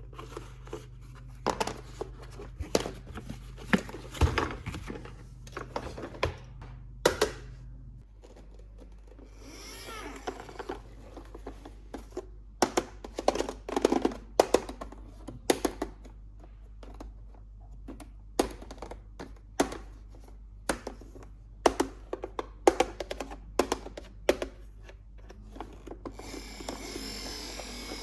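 Hands handling plastic toy parts and packaging: an irregular run of sharp clicks, taps and knocks, with a brief rustle about ten seconds in and a rougher rasping noise starting near the end.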